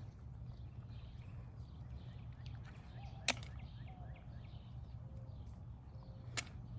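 Two sharp clicks about three seconds apart, snails being dropped one at a time into a collecting bucket, over a low steady rumble.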